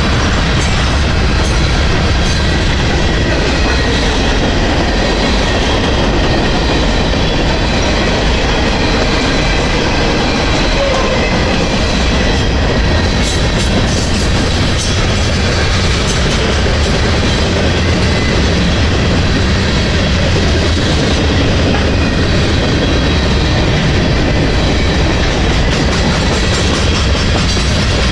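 Freight train's cars rolling steadily past, a continuous loud rumble with wheels clicking over the rail, and a faint high steady ring from the wheels on the rails.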